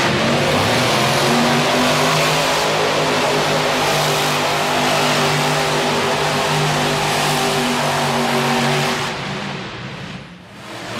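Monster truck engine running hard at high revs, easing off briefly near the end and then coming back on.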